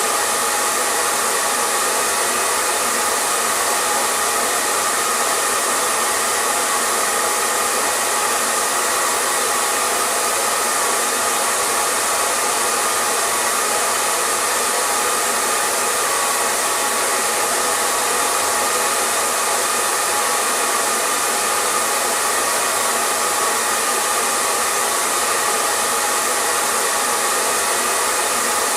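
Hair dryer running steadily: an even, unbroken rushing hiss of motor and airflow with a faint steady whine.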